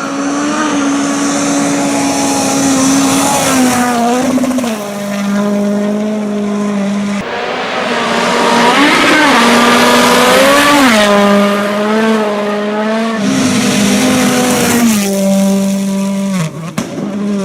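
Racing engines running at high revs, the engine note holding, dropping and climbing with throttle and gear changes, in several short clips cut together.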